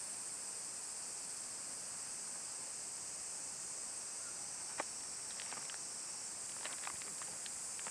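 Steady high-pitched hiss of outdoor ambience, with scattered light clicks and ticks starting about five seconds in.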